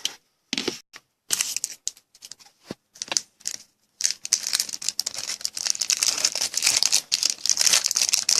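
Clear plastic trading-card pack being torn open and crinkled, in short crackling bursts with gaps for about four seconds, then crinkling steadily.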